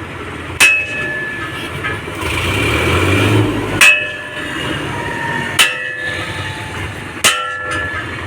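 Four hard metal-on-metal hammer blows, each ringing briefly, with a rough noise swelling for about two seconds before the second blow.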